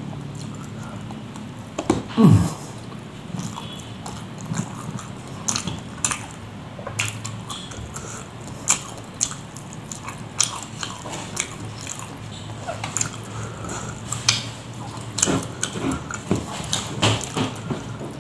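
A man chewing a mouthful of rice and grilled catfish, with irregular wet smacks and clicks from his mouth. A brief falling hum comes about two seconds in.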